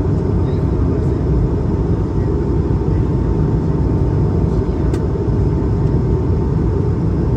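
Steady cabin noise of an Airbus A220-300 with its Pratt & Whitney PW1521G geared turbofans running: an even low rumble with a faint steady tone above it.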